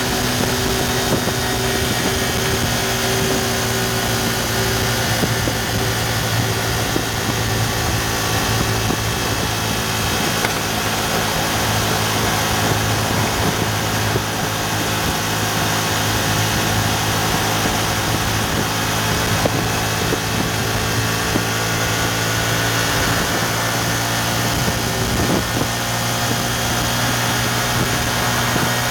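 Yamaha FZ150i's single-cylinder four-stroke engine running steadily at high revs, around 7,000 to 8,000 rpm, while cruising at roughly 95 to 115 km/h.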